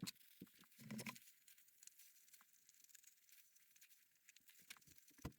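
Near silence, with a few faint scattered taps and clicks, a small cluster about a second in and a sharper tick near the end.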